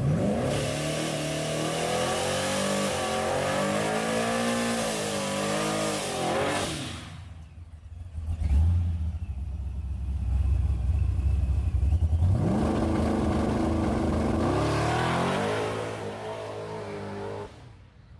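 Drag truck's engine revving hard under acceleration, its pitch climbing and wavering for about six seconds before cutting off. After a low heavy rumble, the revs climb again, hold, and fall away near the end.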